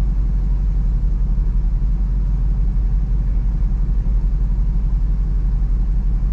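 SUV engine idling at a standstill, a steady low rumble with an even pulse, heard from inside the cabin.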